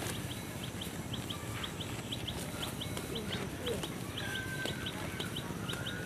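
Birds calling: a rapid run of short, high chirps, several a second, with a longer held call about four seconds in.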